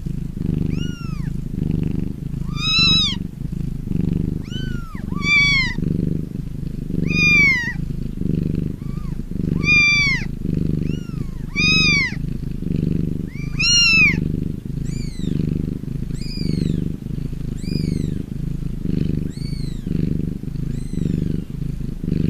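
A cat purring steadily, the purr pulsing about once a second, under a run of short, high-pitched kitten mews, roughly one a second and fainter in the last few seconds.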